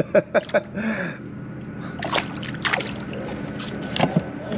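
Water splashing and sloshing around a kayak, with sharp knocks against the hull. A quick run of them comes right at the start, and a few more come in the middle and near the end.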